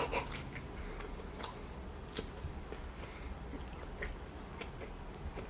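A person chewing food, soft and quiet, with scattered faint wet mouth clicks.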